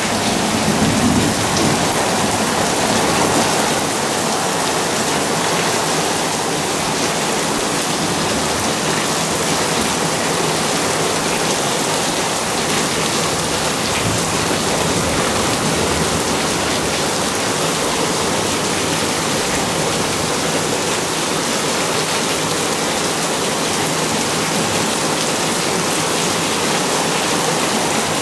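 Heavy rain from a monsoon thunderstorm pouring down steadily as a dense, even hiss, a little louder for the first few seconds.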